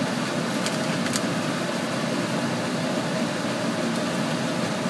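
A steady mechanical whir with a low hum in it, with two faint clicks about a second in.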